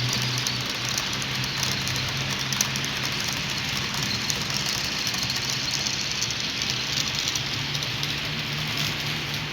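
HO-scale model locomotive running on the layout: a steady low motor hum over a constant hiss of wheels rolling on the track, with fine crackling ticks.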